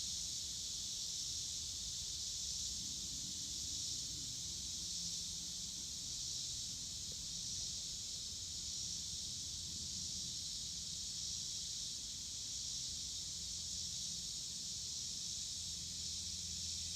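A steady, high-pitched insect chorus that holds unchanged throughout.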